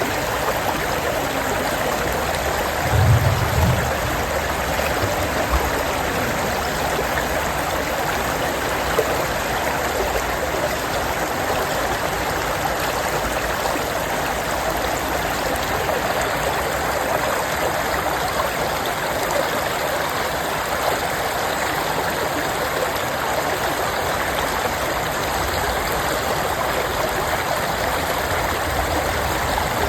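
Small stream flowing steadily, an even rush and babble of water. A brief low thump about three seconds in.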